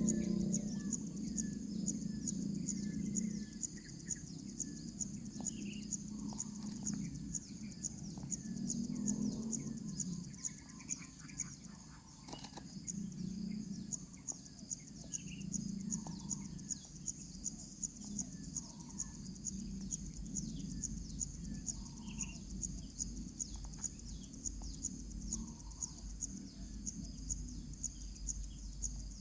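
Insects trilling continuously in a rapid, even, high-pitched pulse, with scattered short bird chirps. Low muffled rumbles swell every second or two.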